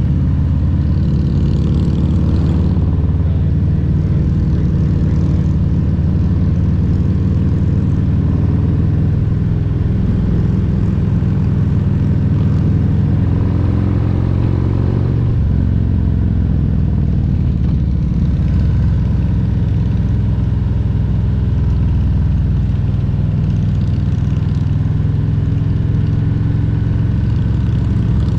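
2022 Harley-Davidson Road Glide Special's Milwaukee-Eight 114 V-twin running steadily under way. Its note rises and falls a little in the middle with changes of throttle.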